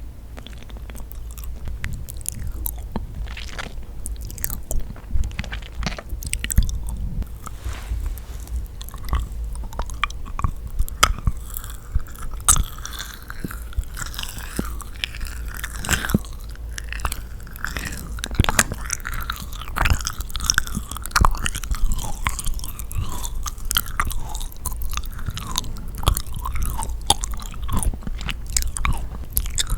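Close-miked chewing and biting of yakgwa, a sticky, chewy Korean honey-fried cookie, with a dense run of short wet, sticky clicks and smacks.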